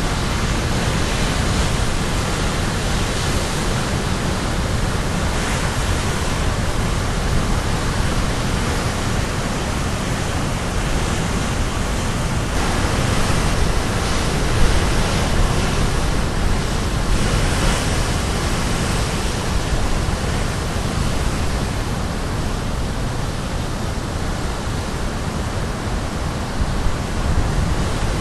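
Caribbean Sea waves breaking on the shore, a steady wash of surf that swells a little around the middle.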